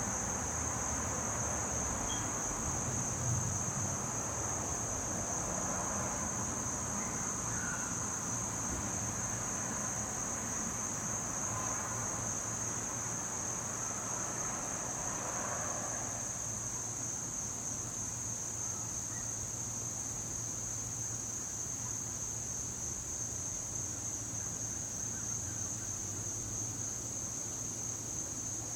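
Crickets chirring in a steady, unbroken high-pitched chorus, over a faint background rumble that eases off about halfway through.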